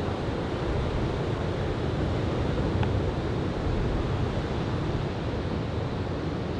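Steady rush of surf from a typhoon swell breaking along a sandy beach, with wind buffeting the microphone.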